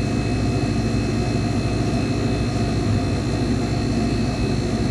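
Steady mechanical drone of a Federal commercial refrigerated case's refrigeration unit running, its compressor and fan humming evenly.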